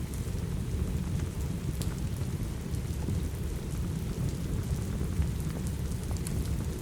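Steady heavy rain with a deep, even low rumble, and a few faint, scattered crackles and pops of a wood fire in a fireplace.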